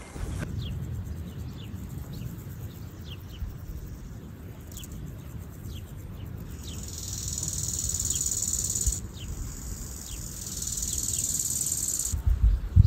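Insects chirring in a high, hissing band that swells in about a third of the way through and again near the end, with short, high, falling bird chirps scattered throughout. Low wind rumble runs underneath.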